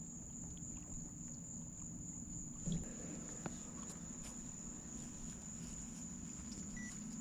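Faint outdoor ambience dominated by a steady, high-pitched insect drone, like crickets or cicadas, with a soft knock about three seconds in and a small click shortly after.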